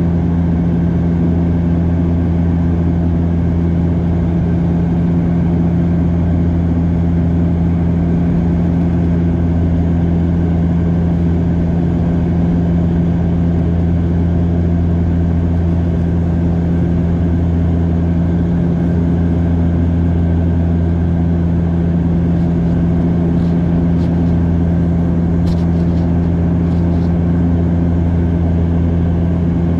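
Cabin noise inside a Bombardier DHC8-Q400 in flight: the steady drone of its turboprop engines and propellers, with a strong low hum. A few faint ticks near the end.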